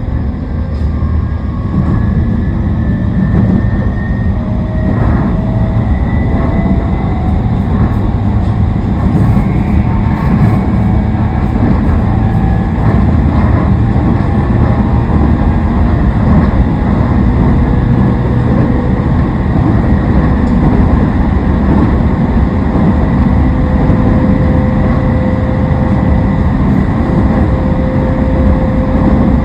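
Toei Shinjuku Line 10-300 series electric train running, with a steady rumble of wheels on track. The Mitsubishi IGBT-VVVF traction motors whine, rising slowly in pitch over the first dozen seconds as the train gathers speed, then holding near one pitch.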